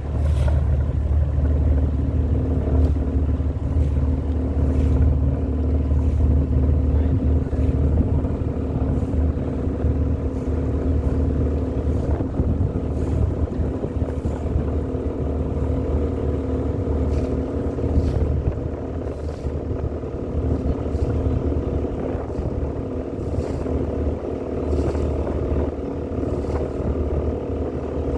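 Motor boat's engine running steadily under way, a low, even drone.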